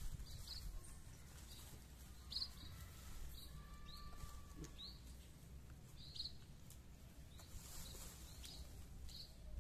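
Small birds chirping faintly: scattered short, high chirps about one a second, a few sweeping upward.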